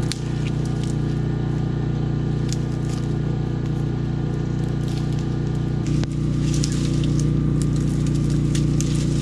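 A vehicle engine idling steadily, with scattered light clicks over it; the engine grows slightly louder about six seconds in.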